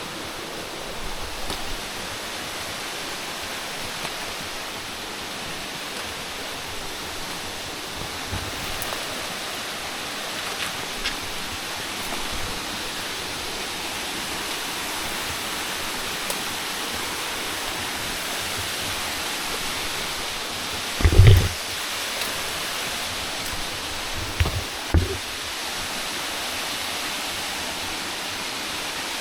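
Steady rush of flowing water from a mountain waterfall or stream, with a few short low thumps about three quarters of the way in.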